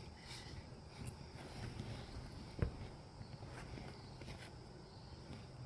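Australian cattle dogs playing: quiet scuffling and paw steps with scattered small clicks, and one sharper knock about two and a half seconds in, over a low steady hum.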